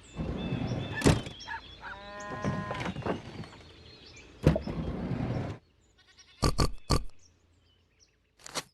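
Animal sounds over a noisy background: one pitched, wavering call about two seconds in, and three short, sharp calls in quick succession near the end.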